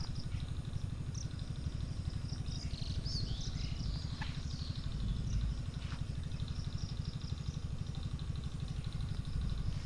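Motorcycle engine idling with a fast, even pulse, while small birds chirp now and then.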